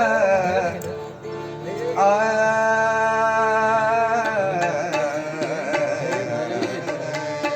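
Devotional bhajan music in the Bhairavi: a voice holds a long note over a steady drone, then moves into wavering melodic turns, with tabla-like drum strokes joining in the second half.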